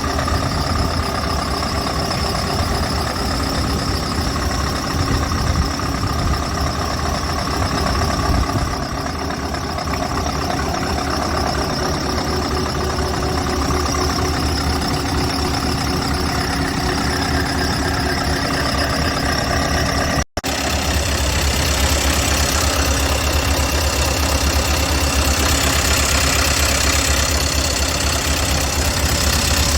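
Scania R580 tractor unit's 16-litre V8 diesel idling steadily. It briefly drops out about two-thirds of the way through, after which the low rumble is stronger.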